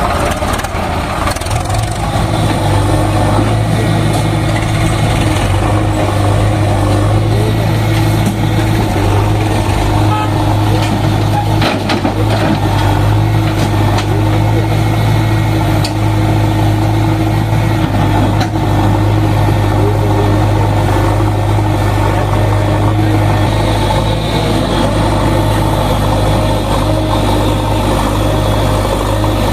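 Diesel engine of a JCB backhoe loader running at a steady speed, with a strong, even low hum.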